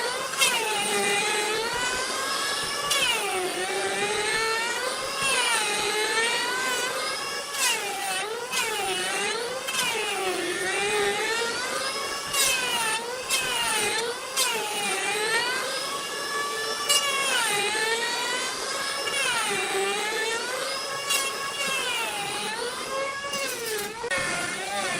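A high-pitched power tool motor working wood, its pitch sagging and recovering again and again as the tool is loaded and eased off, with occasional sharp clicks.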